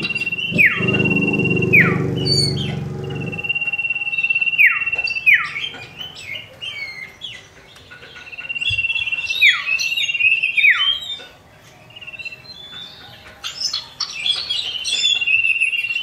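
Common iora (cipoh) calling: a long level whistle that ends in two quick downward-swooping notes, repeated several times, with short high chirps in between.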